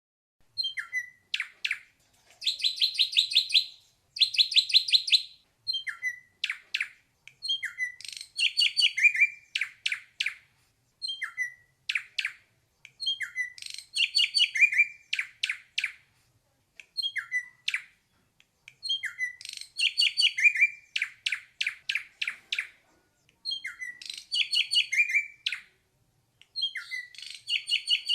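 Ashy drongo singing: short phrases repeated every two to three seconds, each a few sharp whistled notes followed by a quick run of clicking strokes. A little after the start come two longer, buzzy rattling phrases.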